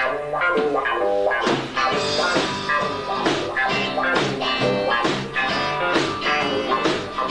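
Live rock band playing: electric guitars and bass over drums, with drum and cymbal hits in a steady beat.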